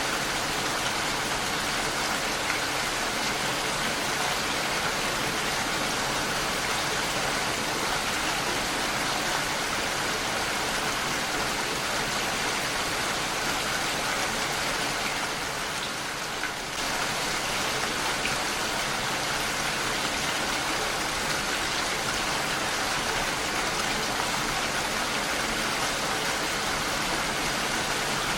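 Heavy rain falling steadily on a window, an even hiss of drops with no break except a brief dip in level about sixteen seconds in.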